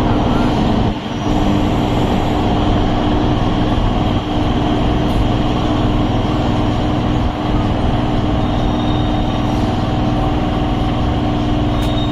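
Electric suburban train running: a steady rumble with a constant low hum.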